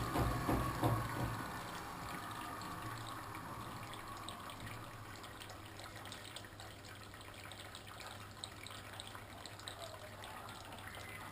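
Old washing machine: its louder running dies down over the first second or two, leaving a steady low hum with water trickling and dripping.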